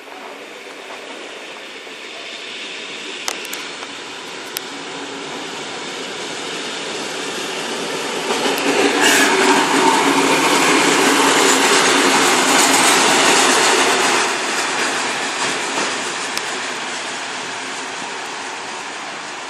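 ALn 776 diesel railcar passing over the level crossing: it grows louder as it approaches, is loudest for about five seconds past the middle, then fades as it moves away. A few sharp clicks stand out along the way.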